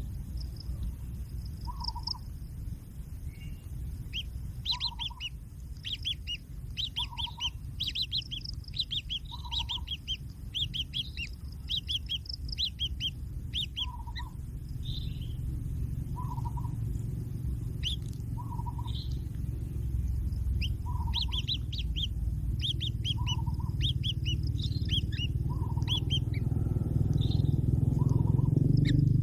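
Birds chirping in quick clusters of short high notes, with a soft lower call repeating about every two to three seconds. A low rumble builds up under them toward the end.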